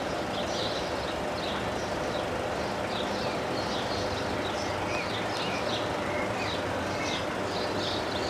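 Small birds chirping in quick, irregular bursts over a steady low background hum.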